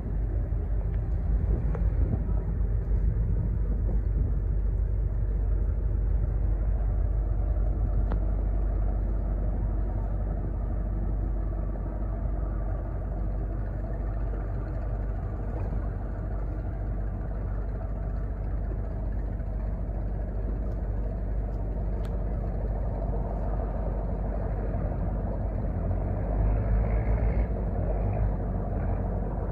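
A large cargo ship's engine running: a steady low rumble that swells briefly near the end.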